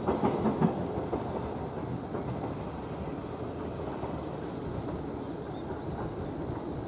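A train's wheels knocking over rail joints in a quick run of clacks during the first second, then a steady, quieter rolling rumble as the train moves away.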